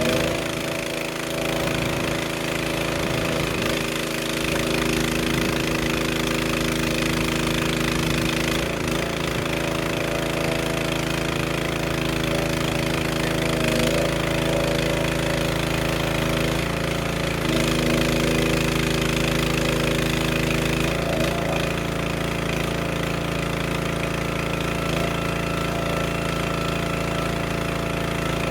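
Engine-driven log splitter running steadily, its engine note shifting every four or five seconds as it works through the wood.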